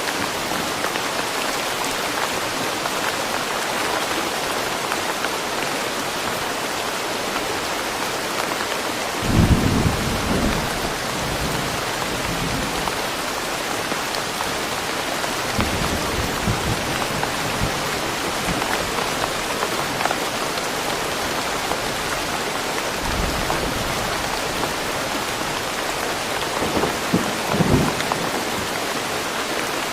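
Steady rain falling in woods, an even hiss of drops. Short low rumbles come through it, the loudest about nine seconds in and another pair near the end.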